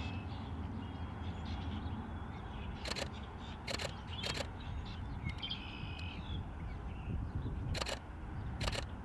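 Canon R5 camera shutter firing single frames: five sharp clicks, three a little before the middle and two near the end, over a steady low rumble and faint bird chirps.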